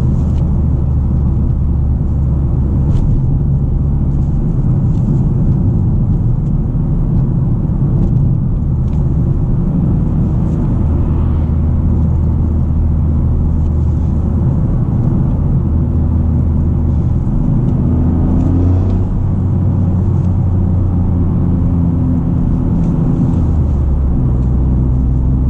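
Toyota GR Corolla's turbocharged 1.6-litre three-cylinder engine, heard from inside the cabin with the windows up and the FI Exhaust catback valves closed. It gives a steady low drone over road noise, and its pitch shifts up and down several times as the car changes speed.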